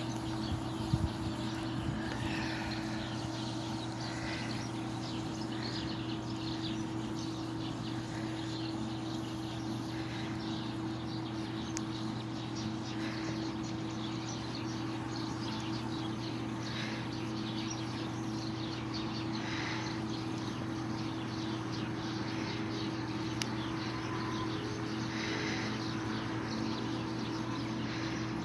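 A steady low hum and hiss, with short bird chirps every couple of seconds.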